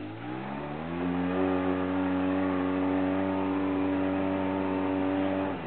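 Car engine, heard from inside the cabin while driving off-road. The revs climb over the first second or so, then hold steady under load.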